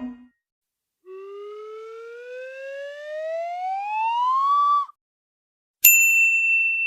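Two cartoon-style sound effects: a whistle-like tone sliding smoothly upward in pitch and getting louder for about four seconds before cutting off, then a single bright ding that rings out and fades.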